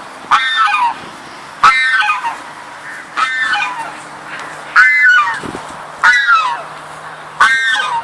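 Peafowl giving loud honking calls, six in a row about every second and a half, each short and falling in pitch.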